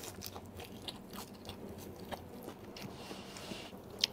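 Close-up chewing of a mouthful of raw lettuce leaf wrapped around cooked crab meat dipped in sauce, with many small wet crunches. A single sharp click near the end.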